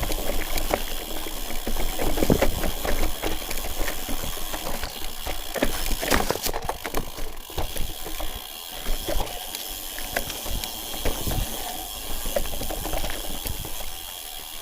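Irregular crunching steps and clicks on a rocky trail over a steady hiss, with low wind rumble on the microphone.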